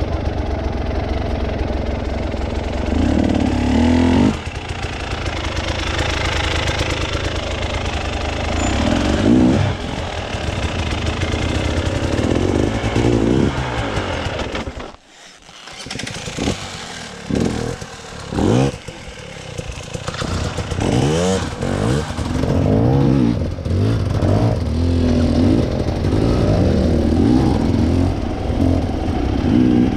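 Off-road trail motorcycle engine revving up and down under changing throttle. The sound drops away briefly about halfway through, then comes back with several quick rising revs.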